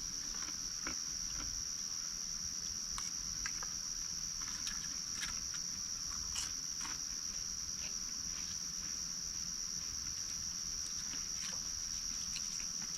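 Night-time insect chorus: crickets trilling in one steady high-pitched drone, with scattered faint light clicks and ticks.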